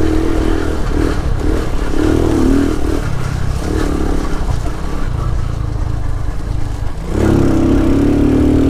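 Single-cylinder engine of a Lifan KP motorcycle being ridden, revving up and down with the throttle. The revs drop about seven seconds in, then climb strongly again.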